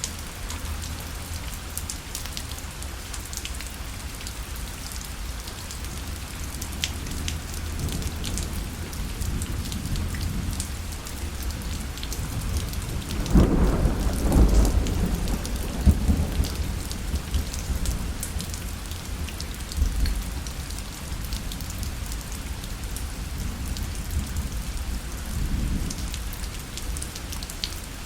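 Rain falling on a parasol, with a low roll of thunder about halfway through that swells and fades over a few seconds.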